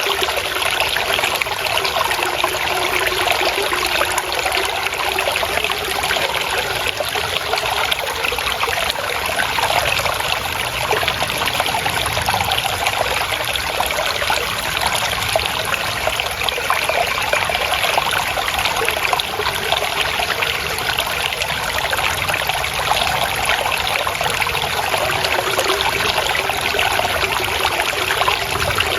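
Water trickling and splashing in a steady flow, like a small stream or spout running over stones.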